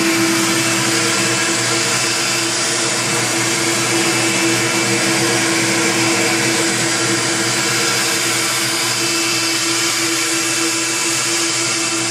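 Vacuum cleaner motor running steadily with a constant whining hum, providing the suction for vacuum-forming heated plastic over a candy mold.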